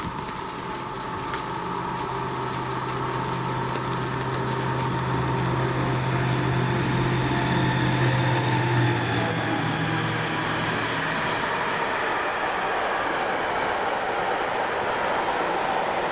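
Diesel locomotive hauling a freight train of tank wagons passes: its steady low engine drone grows louder for about nine seconds and dies away about eleven seconds in. The wagons' wheels on the rails then keep up an even rolling noise.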